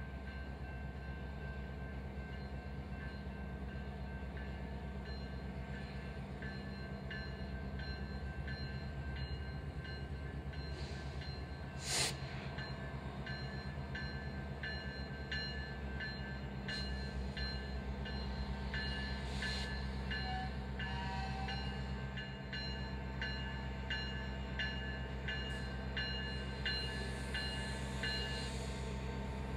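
Freight train moving slowly on the rails, with a regular clicking rhythm and faint metallic ringing over a steady low diesel hum. One sharp clank about twelve seconds in.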